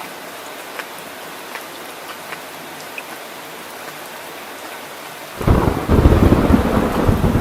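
Heavy rain falling steadily, with scattered drops ticking. About five seconds in, a loud rumble of thunder starts suddenly and drowns out the rain.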